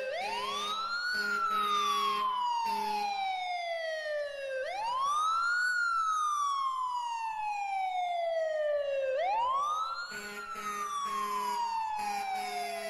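Emergency vehicle siren on a slow wail: each cycle rises quickly in pitch, then falls slowly over about three seconds, repeating about every four and a half seconds, three times. A low pulsed tone sounds under it near the start and again near the end.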